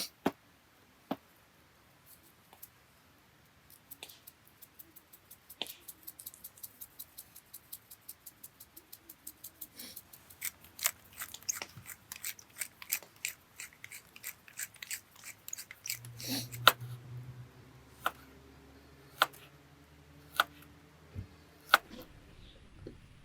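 Cutting with a blade: after a few scattered clicks, a quick, even run of sharp cutting clicks, about four to five a second, grows louder over several seconds. It then gives way to a handful of separate clicks about a second apart.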